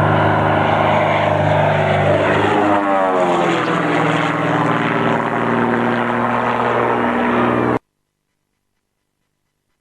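Twin 300 hp Lycoming piston engines and propellers of a Britten-Norman BN-2A-20 Islander running hard as it flies by, the drone's pitch dropping about three seconds in. The sound cuts off abruptly near the end, leaving silence.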